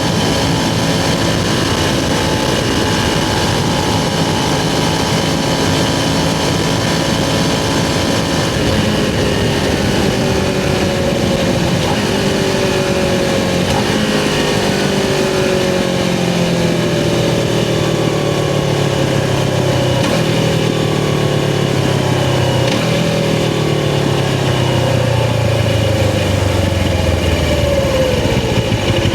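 Suzuki GS500 parallel-twin motorcycle engine running under way, heard from the rider's position with rushing air. The engine note holds fairly steady at first, then falls in several long descending sweeps as the bike rolls off and slows.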